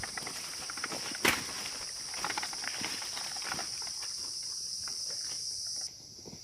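Footsteps crunching through forest undergrowth, with one sharper snap about a second in. A steady high insect buzz runs over it and cuts off suddenly near the end.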